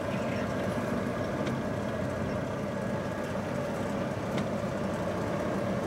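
Pickup truck running, heard as steady cab noise from inside, with a couple of faint ticks.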